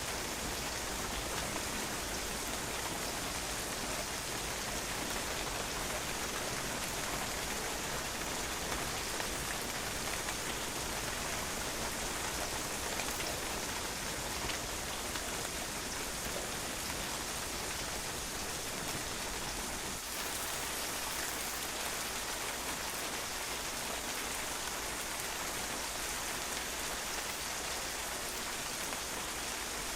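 Steady rain falling and drops splashing on a patio, an even, unbroken hiss.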